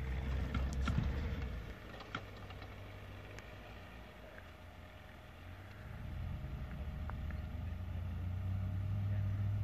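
Small hatchback car's engine running under load as it drives over a grass slope, a low steady drone that fades for a few seconds in the middle and then grows louder again near the end.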